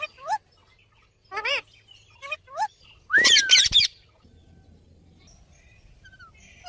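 A parrot making a few short chirping calls, then a louder, longer squawk about three seconds in, followed by quiet.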